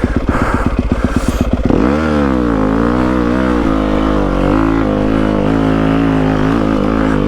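Yamaha WR250F's single-cylinder four-stroke engine chugging at low revs, then revved up hard about two seconds in and held high with a wavering pitch, as the rider tries to power the bike out of being stuck in snow.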